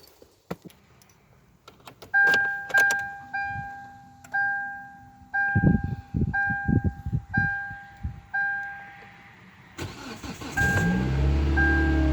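A car's warning chime dings repeatedly with a clear two-tone ding, with a few clicks of the key and ignition. About ten and a half seconds in, the starter cranks briefly and the engine catches and runs: a cold start in freezing weather, with the chime still sounding.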